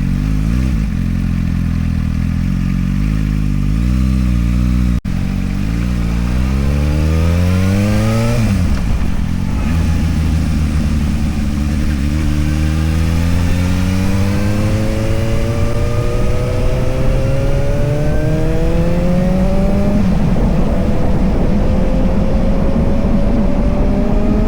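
Motorcycle engine accelerating through the gears. It runs at a fairly steady pitch at first, then climbs, drops sharply at a gear change about eight seconds in, and climbs slowly again with another shift near the end.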